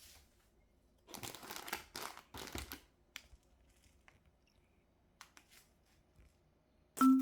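Crinkling and rustling of a bag or wrapping being handled, in three short bursts, followed by a few light clicks. Marimba music starts right at the end.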